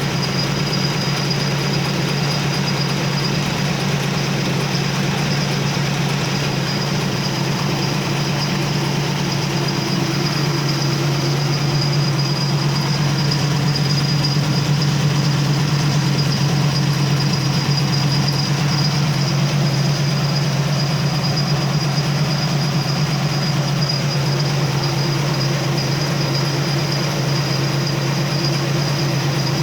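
A 1976 Aston Martin's quad-cam V8 idling steadily, its exhaust note a constant low hum. A thin, steady high whine runs alongside.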